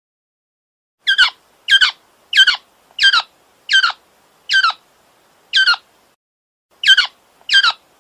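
A bird giving a series of short, harsh calls, each falling in pitch, about nine of them, starting about a second in with a brief pause near the middle.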